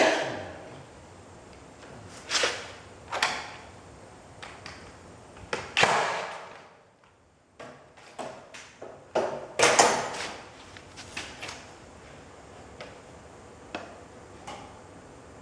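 A series of irregular, sharp knocks and clanks, each ringing briefly as it dies away, the loudest right at the start.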